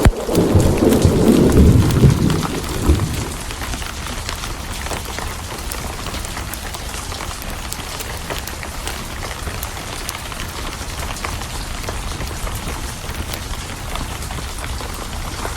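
Rain falling steadily with a roll of thunder that rumbles and dies away over the first three seconds. After that only the steady hiss and patter of the rain remains.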